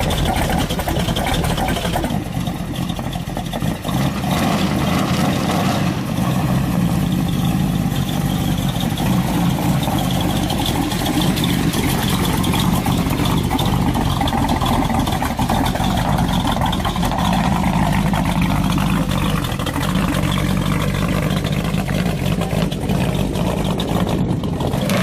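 A muscle car's engine running steadily, a loud continuous rumble.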